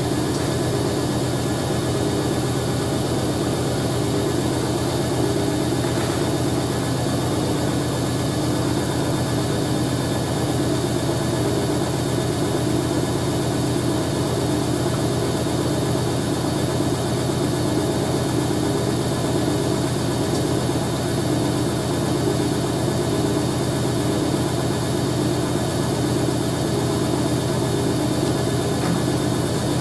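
Hoover A3060 Electronic 1100 washing machine in its final spin, running steadily at high speed with a deep hum. The load is badly unbalanced, so the machine is shaking and threatening to walk across the floor.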